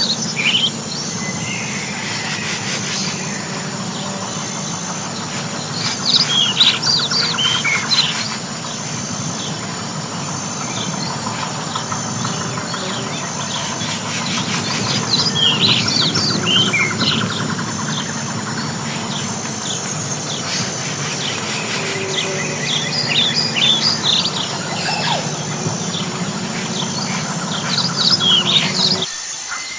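Songbird singing in short bursts of quick, high chirping notes, several seconds apart, over a steady high insect trill and a low background rumble. The rumble drops out abruptly just before the end.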